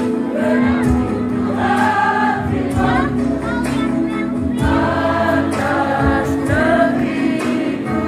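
Women's choir singing, several voices holding and moving sustained notes together.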